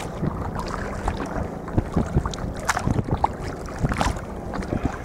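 Muffled low rumble with frequent irregular knocks and taps from a camera stowed aboard a sea kayak under way, with some wind noise.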